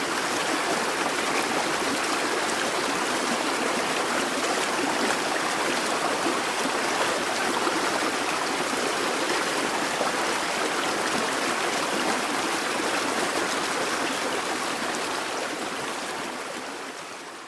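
A busy babbling brook: water running and gurgling steadily over stones, fading out over the last couple of seconds.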